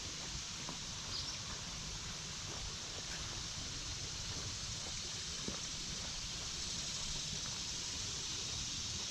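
Woodland ambience by a creek: a steady high hiss with a low rumble underneath, and a few faint scattered ticks, one slightly louder about five and a half seconds in.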